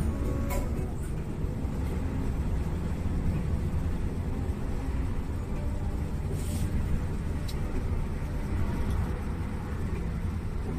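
Bus running: a steady low engine and road rumble, with a few brief light rattles.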